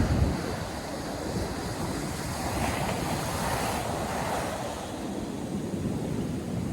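Ocean surf breaking and washing ashore, one wave swelling and fading through the middle. Wind buffets the microphone, with a low gust right at the start.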